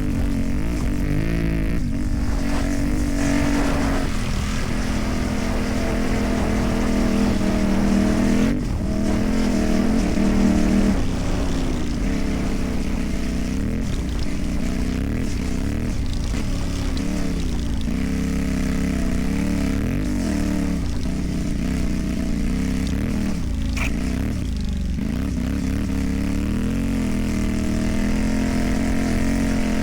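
CFMoto 450MT's parallel-twin engine running through a modified exhaust while riding off-road. The engine note rises and falls again and again as the throttle is opened and closed.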